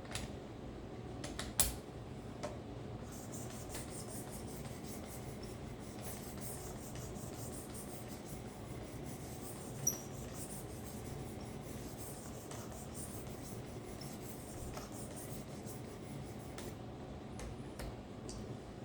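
Karambit blade being stroked over the leather strop of a guided sharpening system: a steady, soft rubbing, with a sharp click about one and a half seconds in.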